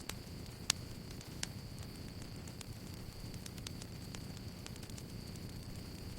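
Campfire crackling: a steady low rush of burning wood with scattered sharp pops and snaps, one louder pop under a second in. A steady thin high tone runs underneath.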